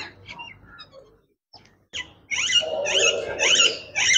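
Birds calling: scattered faint chirps, then from about two seconds in a loud run of harsh, repeated squawks, about three a second.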